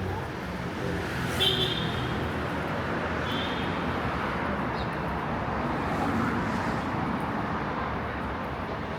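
Busy city street ambience: steady traffic noise from passing cars, with two short high-pitched chirps about a second and a half and three seconds in.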